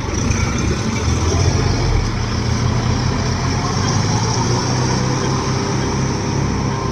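Tractor diesel engine running steadily with a low rumble, a little louder from the start.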